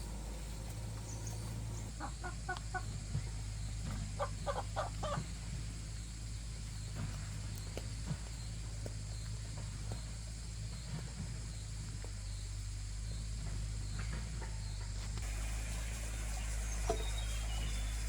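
A chicken clucking in two short runs of about four calls each, over a steady low hum.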